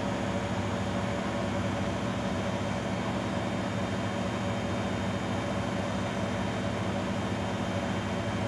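Grundig Mini 14 washing machine running with a steady motor hum that does not change or pause.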